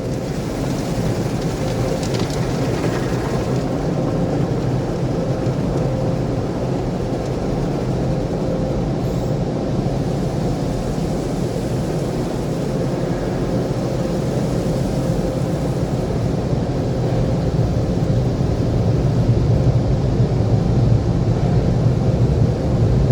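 Automatic tunnel car wash machinery heard from inside the car: a steady, dense rumble and rush of the wash equipment working over the body, growing louder over the last few seconds.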